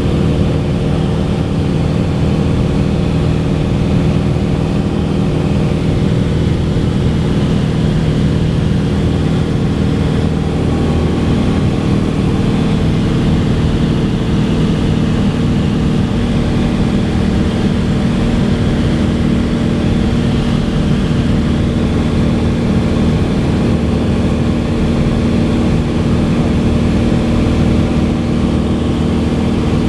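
Cessna 182 single-engine piston airplane's engine and propeller running steadily in flight, a continuous drone whose pitch shifts slightly about ten seconds in.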